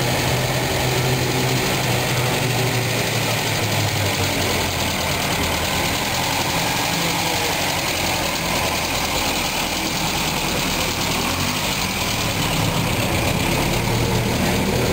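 Alfa Romeo 1900M Matta's four-cylinder twin-cam engine idling steadily.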